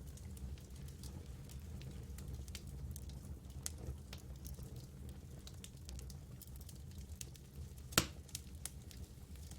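Campfire burning, its wood crackling in irregular small snaps over a low steady rumble, with one loud pop about eight seconds in.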